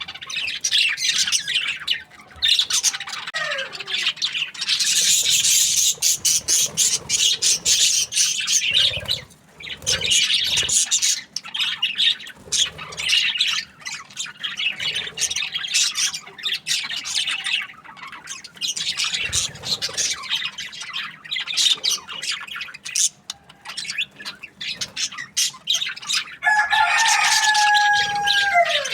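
A flock of budgerigars chirping and warbling continuously in rapid, overlapping high chatter. Near the end a lower, drawn-out call holds steady and then drops in pitch.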